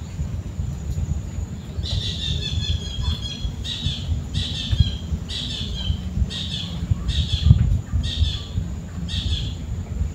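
A bird calling a series of about eight short, high notes, a little faster than one a second, the first call longer and stepping down in pitch, over a steady low rumble.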